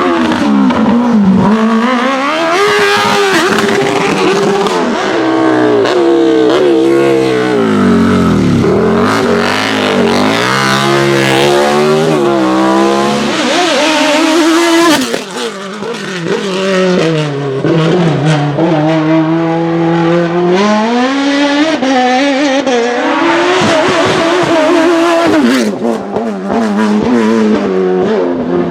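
Race car engine at full throttle through a slalom: it revs hard, lifts and revs again many times, its pitch climbing and falling in quick swings. There are a few sharp cracks, and the level dips briefly about halfway through.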